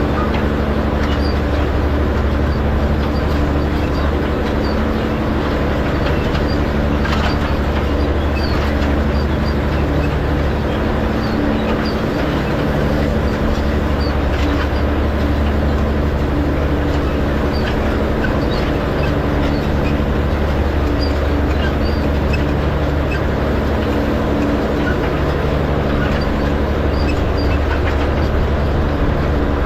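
Tractor engine running steadily under load while pulling a hay rake, with faint high clicks scattered through it.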